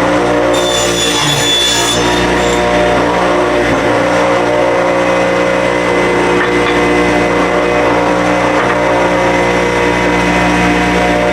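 Table saw running steadily, ripping cedar fence pickets lengthwise to 3 1/4 inches wide.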